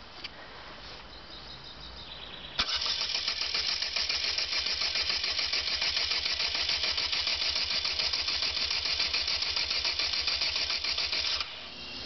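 A Caterham Roadsport 125's Ford Sigma four-cylinder engine is cranked over by its starter motor on its first start. After a few clicks and a faint hum, the fast, even cranking comes in suddenly about two and a half seconds in, runs for about nine seconds, then cuts off.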